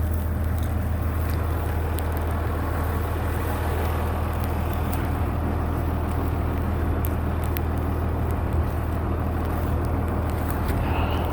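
Tractor engine running steadily at a constant speed, a deep even hum with a few faint clicks over it.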